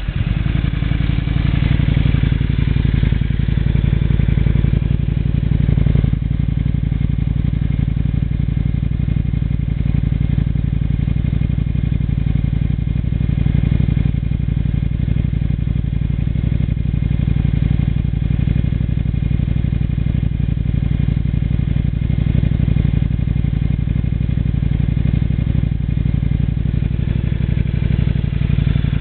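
Exhaust note of a Yamaha Drag Star V-twin through a Daytona 2-into-1 aftermarket muffler, idling steadily just after starting.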